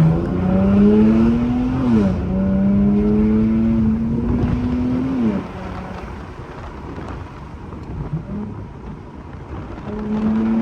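Infiniti Q50's turbocharged engine accelerating hard through a muffler-deleted exhaust: the revs climb, drop with a gear change about two seconds in, and climb again until the throttle is lifted about five seconds in. After a quieter stretch the revs climb once more near the end.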